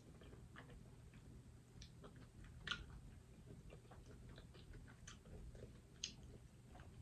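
Faint, close-up eating sounds: soft chewing and mouth clicks, with scattered small ticks and a few sharper clicks.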